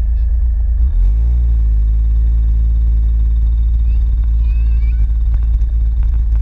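Engine revving up about a second in, then running at a steady pitch over a heavy low rumble.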